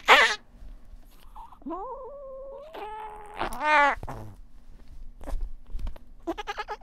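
Siamese cats yowling as they wrestle: a sharp cry at the start, then two drawn-out yowls about two and three and a half seconds in, followed by a few light knocks.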